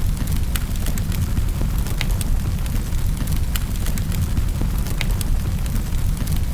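Wood fire crackling in a fireplace: scattered sharp pops and snaps every half second or so over a steady low rumble of the flames.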